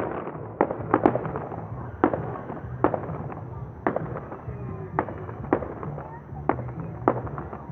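Fireworks bursting overhead: about a dozen sharp bangs at irregular intervals, roughly one or two a second, each followed by a short echo.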